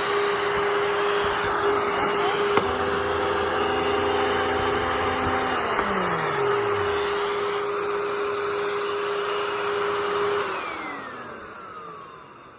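Panasonic Performance Plus Platinum upright vacuum running with a steady motor hum and whine. A second, lower drone joins a few seconds in and winds down with falling pitch after a few seconds. Near the end the motor is switched off and winds down, falling in pitch as it fades.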